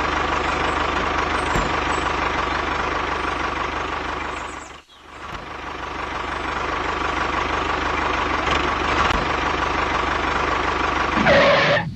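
Engine running steadily with a fast, even chug. It fades out sharply about five seconds in and comes back.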